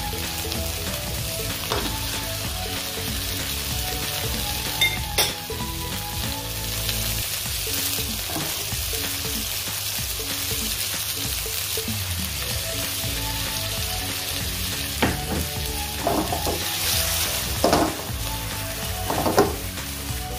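Chopped garlic, onion and tomato sizzling steadily in hot oil in a wok, stirred with a spatula that scrapes and knocks against the pan a few times, most around the last few seconds.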